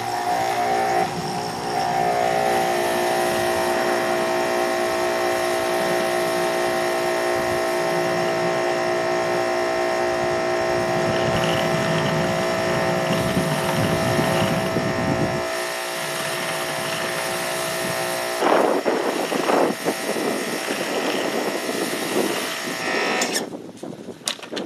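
Ryobi 2000 psi pressure washer running steadily, with the hiss of water spraying through a rotary surface cleaner onto concrete. About two-thirds of the way through the steady machine tone drops away and the spray turns louder and uneven, then the sound falls off near the end.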